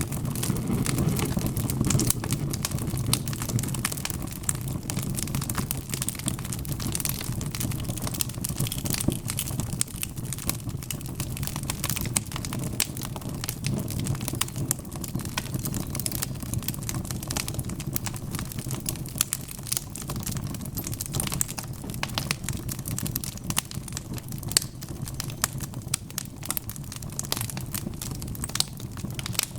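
Wood fire crackling: dense, irregular pops and snaps over a steady low rumble of flames.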